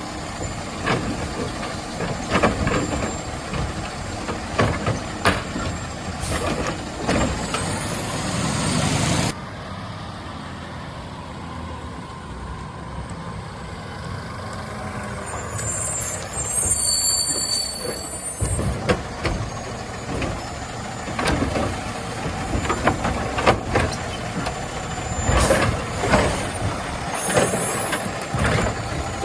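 Peterbilt 520 garbage truck with a Labrie Automizer automated side loader working a line of carts: the truck running, with repeated knocks and clanks of carts being handled. A long air hiss cuts off sharply about nine seconds in.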